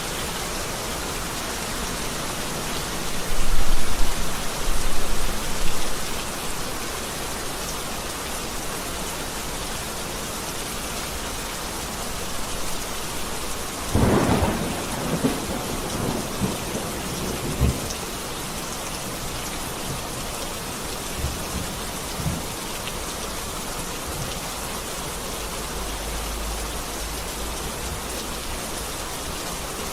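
Heavy rain falling steadily, with thunder: a low rumble a few seconds in, a sharp crack about halfway through that rolls off over the next few seconds, and a further low rumble near the end.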